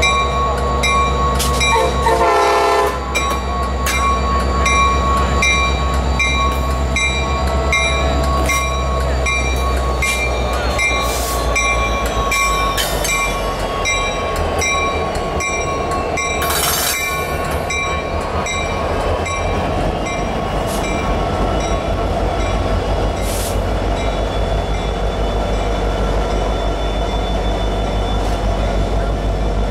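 Railroad train moving past with a steady deep diesel rumble. A short horn note sounds about two seconds in, and a bell rings in a steady repeating rhythm.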